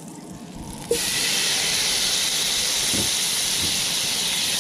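Artichoke hearts dropped into hot melted butter in a stainless steel pot, sizzling. The sizzle starts suddenly about a second in and holds steady.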